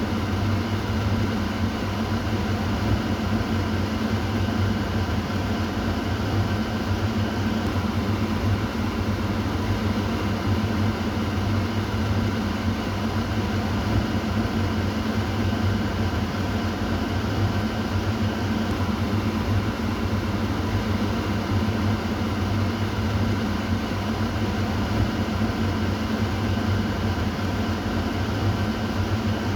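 Kitchen exhaust fan running steadily: a constant whoosh of air over a low motor hum.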